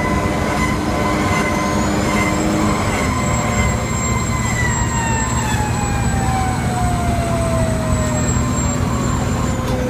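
Fire engine siren winding down in one long, slowly falling pitch, over the steady running of the truck's engine.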